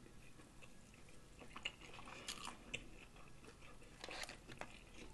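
Close-miked mouth sounds of a person chewing food: faint wet smacks and small clicks, a little louder in the middle and again about four seconds in.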